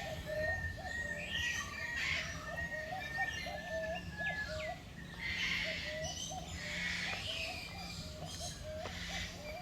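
Several birds calling together: a steady stream of short, repeated low chirps, with higher calls over them and a steady high trill for about the first four seconds.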